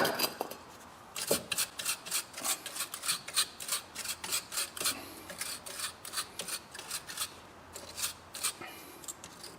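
Rust being scrubbed off a car's front drive shaft by hand with an abrasive, in regular back-and-forth strokes about three a second, after a sharp click at the very start.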